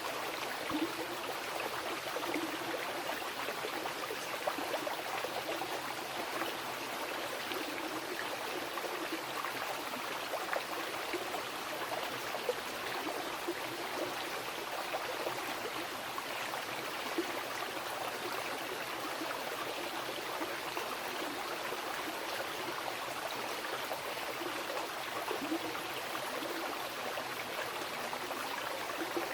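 Mountain river rushing and splashing over rocks, a steady full flow with many small gurgles and splashes.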